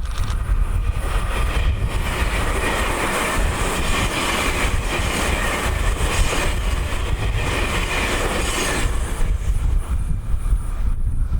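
Electric train on the Tobu Nikko Line running past on the rails, wheels rumbling with a ringing squeal, then dying away about nine seconds in. Strong wind buffets the microphone underneath.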